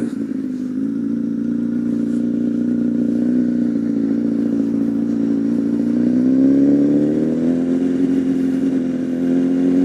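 Honda CBR1000RR Fireblade's inline-four engine running on light throttle while riding, its pitch rising a little about a second in and again around seven to eight seconds in.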